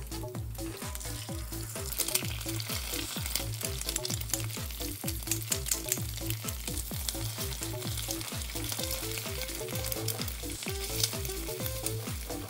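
Chinese sausage slices sizzling and frying in a stainless steel pan as they are stirred with a spatula; the sizzle gets louder about two seconds in, as eggs go into the pan. Background music with a steady beat plays underneath.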